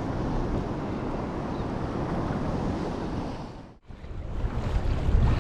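Sea wash against rocks with wind buffeting the microphone. The sound drops out for an instant about two-thirds of the way through, then returns louder with heavier low wind rumble.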